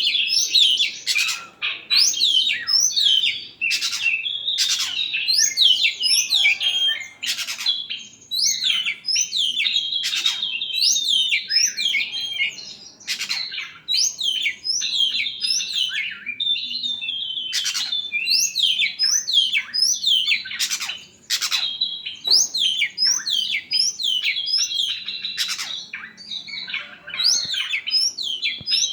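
Oriental magpie-robin (kacer) singing a long, unbroken, fast song of varied whistles and rising sweeps, mixed with many short harsh rasping notes.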